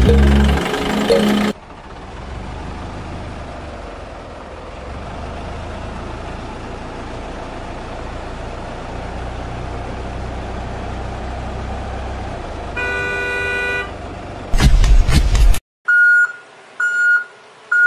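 Car sounds: an engine running steadily, then a single horn toot lasting about a second, a loud noisy burst, and three short high beeps near the end.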